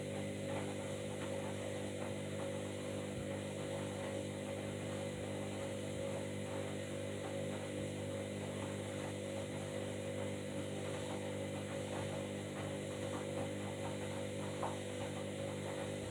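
Washing machine running: a steady motor hum with light ticking, that cuts off suddenly at the end.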